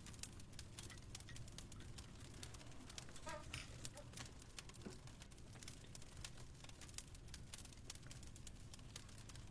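Wood fire crackling softly, with frequent irregular sharp pops, over a low steady hum. A short high squeak rises about three seconds in.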